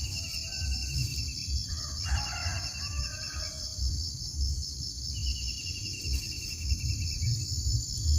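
Outdoor nature sound. A steady, high, pulsing insect drone runs throughout, with shorter trills that repeat three times. A burst of fowl-like bird calls comes about two to three seconds in, over a low rumble.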